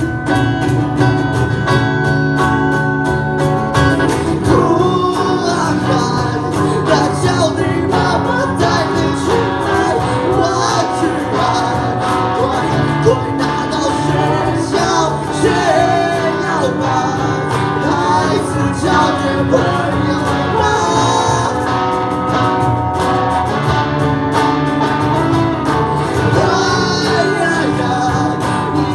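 Live band performance: voices singing over strummed guitars, the music running on without a break.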